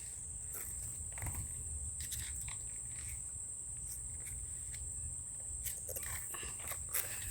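Steady high-pitched chorus of crickets or other insects, over a low rumble, with scattered soft knocks and clicks.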